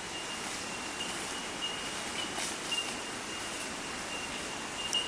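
Quiet outdoor ambience: a soft even hiss with a thin, high, steady tone that fades in and out, and a few faint ticks.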